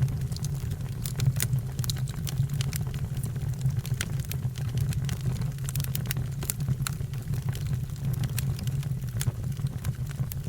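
Fire burning with many irregular sharp crackles and pops over a steady low rumble.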